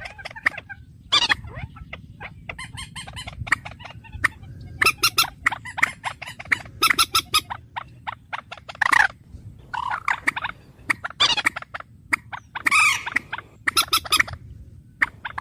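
A bird calling over and over in repeated bursts of rapid clicking chatter mixed with short harsh calls, over a steady low background hum.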